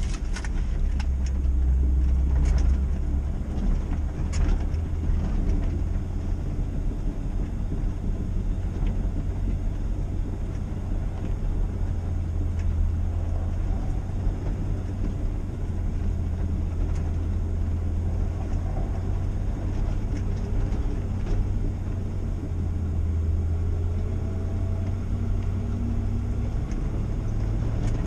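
Old pickup truck driving on a dirt road: a steady low engine and road rumble, with a few sharp rattles and knocks in the first few seconds.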